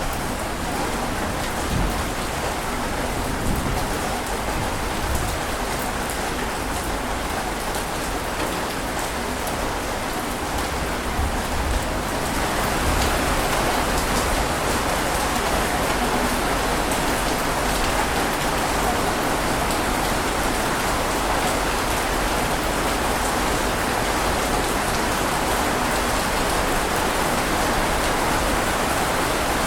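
Steady rain falling, growing a little heavier about twelve seconds in.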